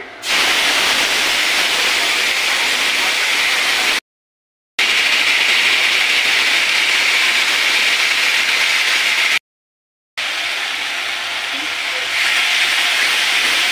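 Spice paste frying in hot oil in a steel wok: a loud, steady sizzle that starts suddenly as the paste hits the oil. It cuts out completely twice for under a second.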